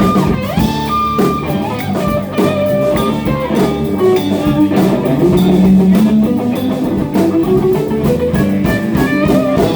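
Live rock band playing an instrumental passage: electric guitar lead with bending notes over bass and a drum kit.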